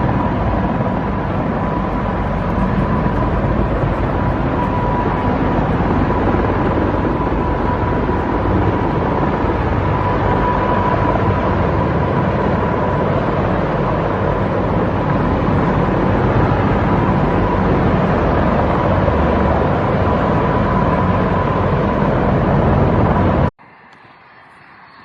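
Loud, steady aircraft engine and airflow noise with a constant whine, cutting off abruptly near the end to a much quieter sound.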